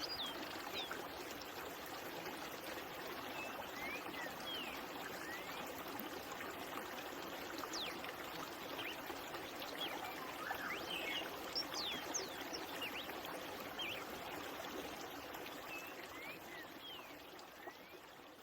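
A stream running and trickling over rocks, a steady rush of water, with scattered short high chirps of birds over it. The water sound fades somewhat in the last few seconds.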